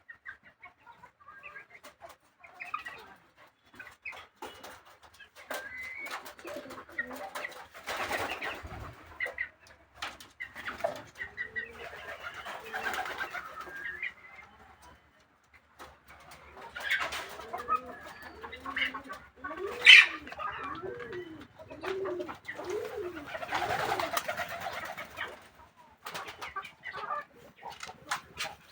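Pigeons cooing. A run of repeated rising-and-falling coos comes in the second half, among scattered clicks and rustling, with one sharp click about two-thirds through.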